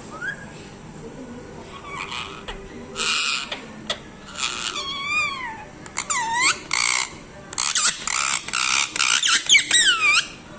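Parrot calling: harsh squawks mixed with swooping whistled notes that dip and rise in pitch. Sparse at first, then a rapid run of calls from about six seconds in.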